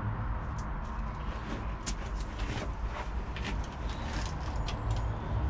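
Soil warming cable being handled and laid out on sand: scattered light clicks and rustles over a steady low rumble.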